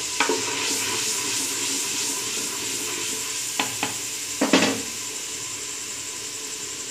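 Tomato, garlic and spice masala sizzling in oil in a clay handi, with a spoon stirring it and knocking against the pot a few times. The loudest knock comes about four and a half seconds in.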